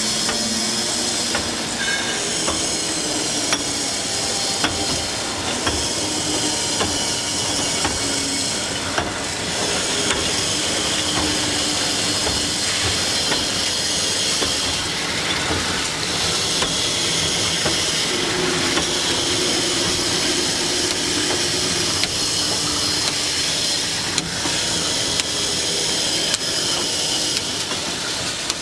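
Automatic glass bottle washing and filling line running: a steady hiss of spray and machinery, with frequent small clinks of glass bottles knocking together.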